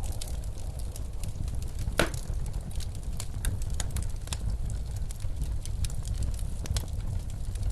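Wood fire crackling in a fireplace with scattered sharp pops, one louder pop about two seconds in, over the low, steady rumble of blizzard wind.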